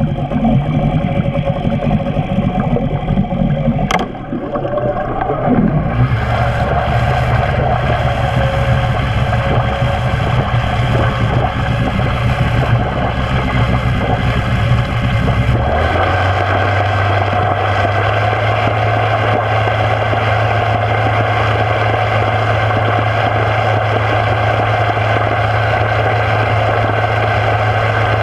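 Eight-horsepower two-stroke Nissan outboard running in reverse with its propeller turning, a steady engine drone. About halfway through it steps up to a higher, steady speed. At these revs, above about 3000 RPM, the propeller is wrapped in the motor's own through-hub exhaust plume and its reverse thrust drops and swings.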